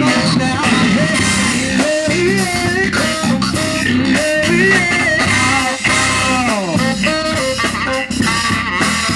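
Live band playing an instrumental stretch with electric guitar, bass and drum kit, a lead line bending in pitch over the groove.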